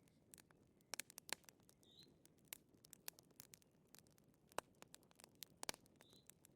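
Fire crackling faintly, with scattered sharp pops and snaps coming at irregular intervals over a soft low hiss.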